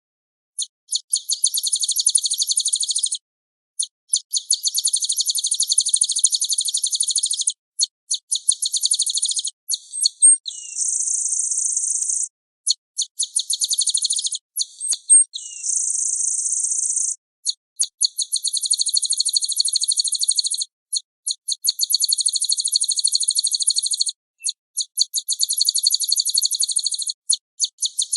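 Recorded song of a small songbird: long runs of rapid, high trills in close succession, twice broken by a steadier buzzy phrase about ten and fifteen seconds in. It is a training track played for cage birds to copy.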